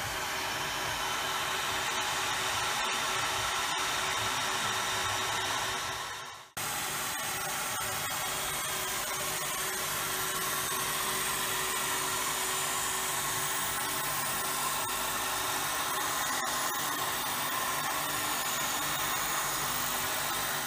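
Automated milling machine cutting a carbon fibre rim: a steady machining whine over hiss. It drops out for a moment about six seconds in, then carries on.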